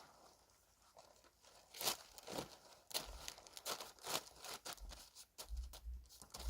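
Plastic tarp pond liner crinkling and rustling as it is pulled and handled, in a series of short crackles, with a few low thuds near the end.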